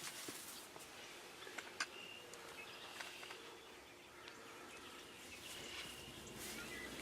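Faint outdoor ambience with scattered short bird chirps and calls, and a few light clicks.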